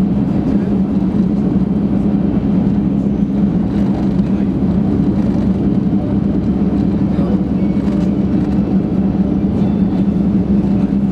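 Running noise inside the passenger cabin of a JR Kyushu 800 series Shinkansen at speed: a steady low rumble with a constant hum, unchanging throughout.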